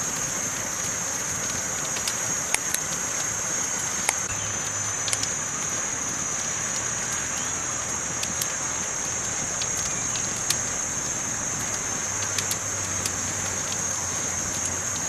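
Campfire burning, with irregular sharp crackles and pops over a steady high hiss.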